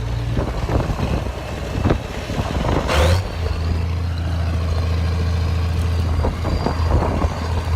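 Tractor engine running steadily while riding, with irregular rattles and knocks and a short hiss about three seconds in, after which the engine note settles a little lower.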